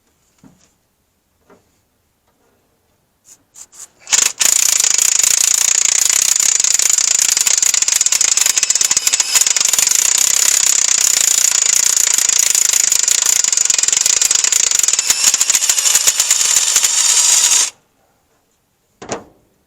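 A few short puffs of compressed air, then a loud continuous hissing blast from an air blowgun for about thirteen seconds that cuts off suddenly: air blowing debris and carbon out of the spark plug holes of a seized engine.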